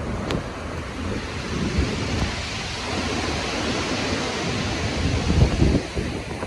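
Stormy ocean surf: the rush of a wave swelling and washing in, with heavy low rumbling surges near the end.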